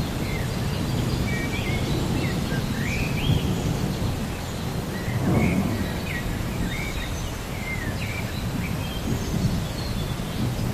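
Thunderstorm ambience: a steady low rumble with rain noise, a louder roll of thunder about five seconds in, and small birds chirping above it.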